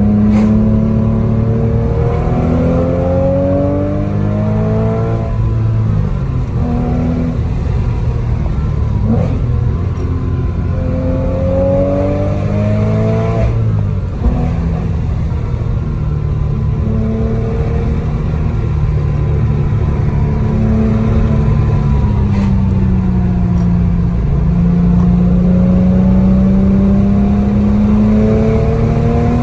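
2006 Porsche Cayman S's 3.4-litre flat-six, fitted with aftermarket headers and exhaust, heard from inside the cabin while driving: the engine note climbs and drops several times as the car accelerates and eases off, with a long climb near the end.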